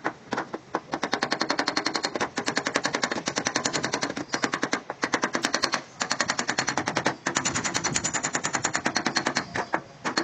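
Rapid, even tapping on a car body panel, about ten light strikes a second with a few brief breaks: metal being tapped down during paintless dent repair.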